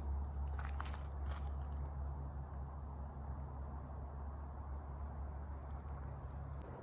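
Insects chirping outdoors: a steady high thin trill with short repeated chirps, over a steady low rumble, with a couple of faint steps in the first second and a half.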